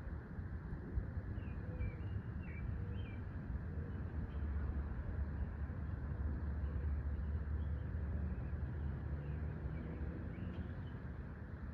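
Scattered short, faint chirps of small birds over a steady low outdoor rumble.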